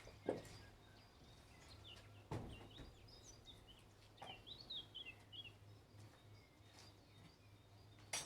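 Quiet outdoor background with small birds chirping faintly, mostly in the middle, and a few sharp knocks, the first just after the start and another near the end.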